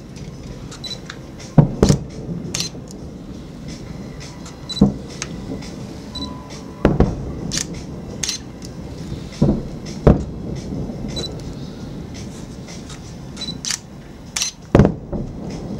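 Aerial firework shells bursting in a string of sharp bangs, a second to a few seconds apart, with smaller pops and crackles between them.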